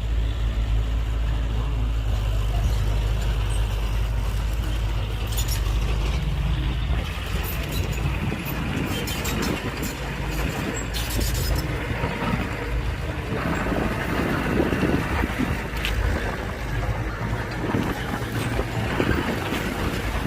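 Diesel engine of heavy earthmoving machinery running. It is a steady low hum at first and turns rougher and noisier about halfway through.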